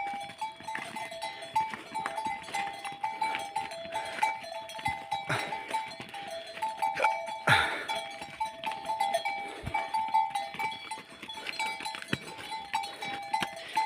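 Bells hung on livestock clinking irregularly again and again as the herd moves along, with a few short sounds between them.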